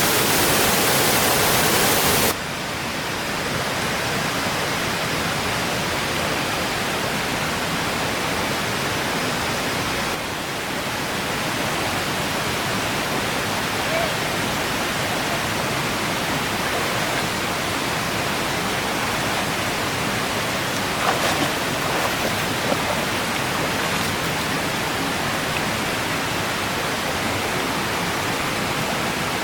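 Steady rush of flowing water, louder and brighter for about the first two seconds, then even, with a few faint clicks a little past twenty seconds in.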